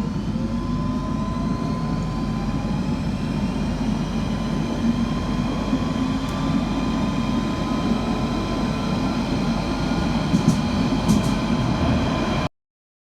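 Inside a London Underground Central line 1992 Stock carriage as the train accelerates: a steady rumble of wheels on rails under the traction motor whine, which rises in pitch. The sound cuts off suddenly near the end.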